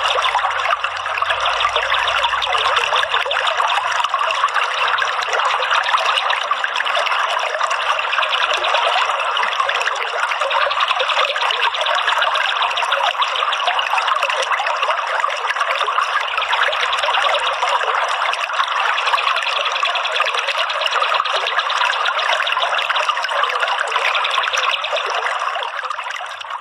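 Steady trickling of running water, fading out near the end.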